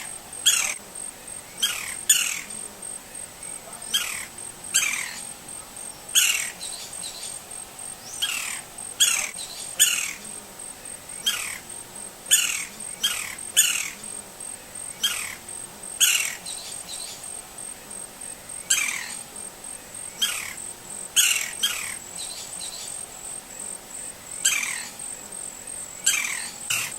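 Green-barred woodpecker calling: repeated short calls that fall steeply in pitch, often two or three in quick succession, over a steady high insect trill.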